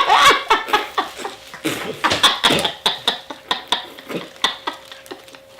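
Wet squelching and slurping as a hollowed-out grapefruit is squeezed and sucked on over a banana: a run of short, irregular smacking clicks.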